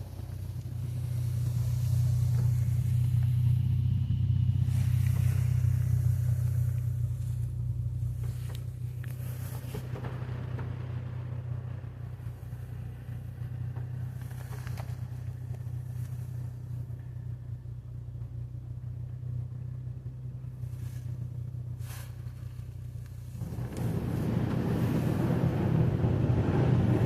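Automatic car wash running: a steady low machine hum, louder for the first several seconds, with a few light knocks. A rushing hiss builds up about 23 seconds in.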